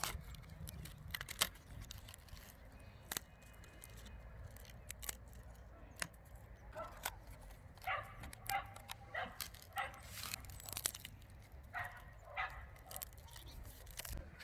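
A dog barking in the distance: two runs of short barks, the first about halfway through and a shorter one near the end. Scattered sharp clicks and crackles run through it.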